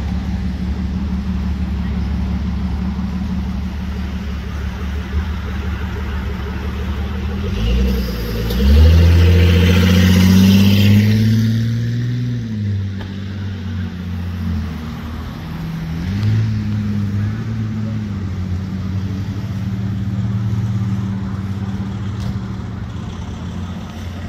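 A car engine running steadily, speeding up about eight seconds in and easing back off a few seconds later, with a smaller rise in revs a few seconds after that. Hiss from passing road noise peaks as the engine speeds up.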